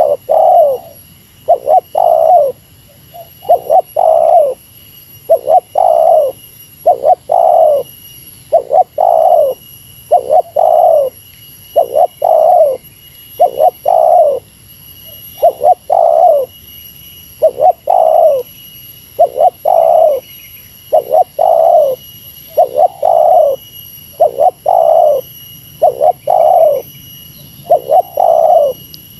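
Spotted dove (tekukur) cooing over and over in the 'meratus' lure call, its phrases coming mostly in quick pairs about every two seconds. A faint steady high whine sits underneath.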